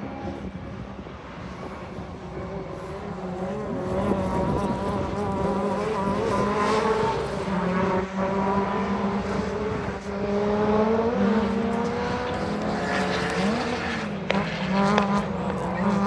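Two-wheel-drive rallycross cars racing, several engines revving up and down through the gears at once. A single sharp crack comes about fourteen seconds in.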